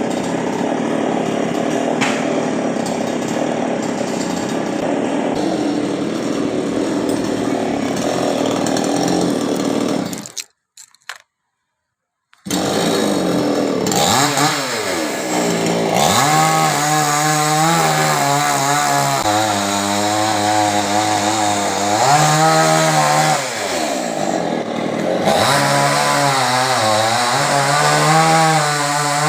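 Chainsaw cutting a coconut palm: about ten seconds of steady running under load, then a break of about two seconds. The engine then runs again with its revs repeatedly rising and falling.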